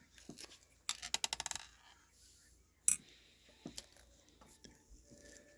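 6 mm plastic airsoft BBs (0.25 g) being dropped and clattering against each other and a hard surface: a quick run of small clicks about a second in, then a single click and a few fainter taps.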